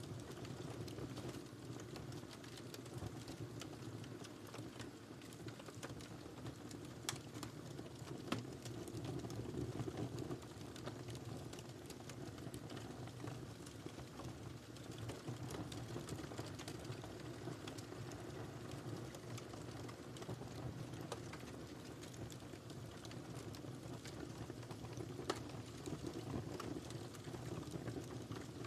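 Wood fire burning in a fireplace: a steady low rumble of flames with scattered crackles and a few sharper pops.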